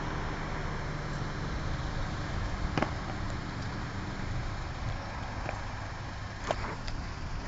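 Road traffic with a car engine idling, a steady low hum. Two brief sharp clicks, about three seconds in and near the end.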